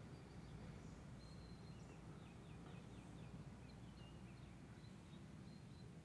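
Faint songbird chirping: bursts of quick high chirps and short whistled notes, one held briefly, over a low steady outdoor rumble.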